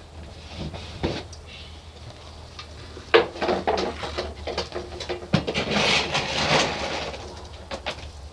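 Dog food and a bowl being handled while a dog is fed: a sharp knock about three seconds in, then a few seconds of clattering and rattling.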